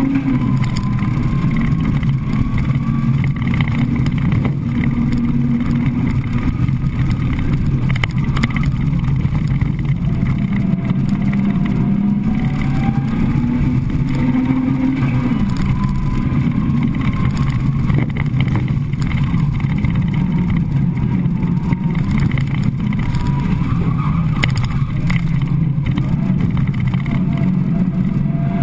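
Peugeot 106's four-cylinder petrol engine under hard driving on a slalom run, revving up and easing off again and again, its pitch climbing and dropping several times.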